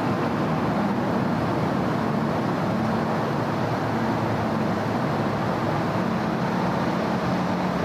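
Steady city road traffic: a continuous wash of passing cars and tyre noise with a low engine hum underneath, with no single event standing out.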